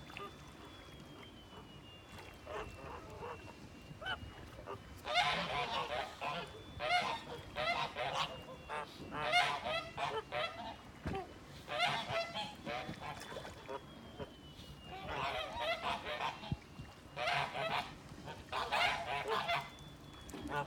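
Farm birds calling in two long spells of rapid, repeated loud calls, starting about five seconds in, with a short lull in the middle.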